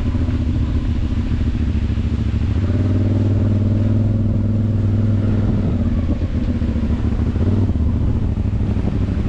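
Motorcycle engine running under way, with a loud, steady low rumble; the engine note stands out more clearly for a few seconds in the middle.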